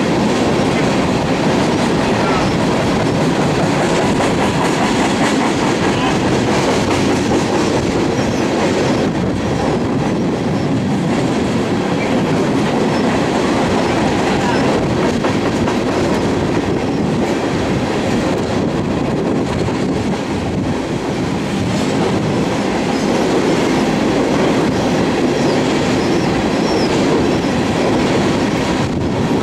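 Empty coal hopper cars of a freight train rolling past: a loud, steady rolling of steel wheels on the rails.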